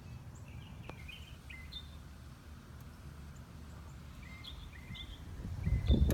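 Small birds chirping repeatedly over a steady low rumble; a much louder low rumble swells up near the end.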